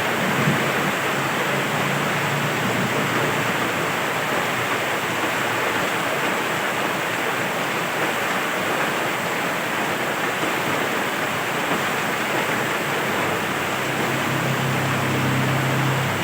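Rain falling steadily, a dense even hiss with no let-up. A faint low hum comes in near the end.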